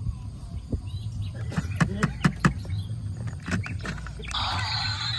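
A run of sharp clicks and knocks over a low steady hum; music starts near the end.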